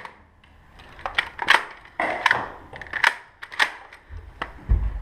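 A string of sharp, irregular clacks and knocks from a Nerf game: foam dart blasters working and darts striking hard surfaces, with a low thump near the end.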